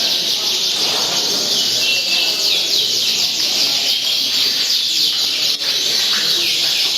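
Many caged songbirds singing together during a contest round, a dense overlapping chorus of rapid, high, downward-sweeping notes, with a murmur of crowd voices underneath.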